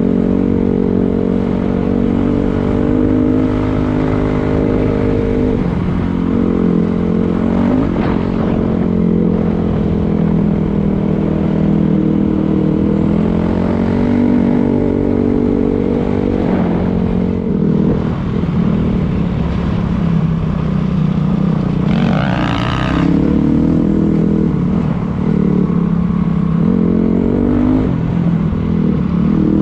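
Dirt bike engine running under way, its pitch rising and falling as the throttle is worked, with a brief rushing hiss about two-thirds of the way through.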